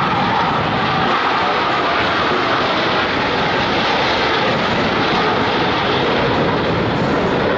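Jet engines of Blue Angels F/A-18 Super Hornets running loud and steady as the jets fly by.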